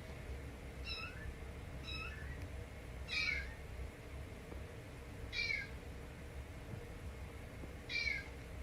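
Kitten meowing: five short, high-pitched meows, spaced one to two and a half seconds apart.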